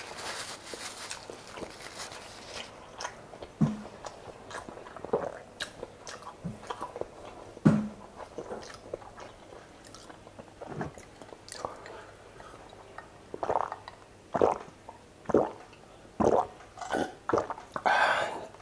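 Close-miked mouth sounds of a person chewing and smacking food, with scattered clicks. A paper tissue rustles at the start, and near the end comes a run of gulps as he drinks from a glass.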